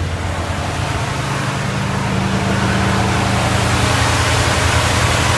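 1979 Dodge W200 Power Wagon's 360 V8 idling shortly after a cold start, heard through its dual Flowmaster mufflers: a steady low exhaust note that grows slowly louder.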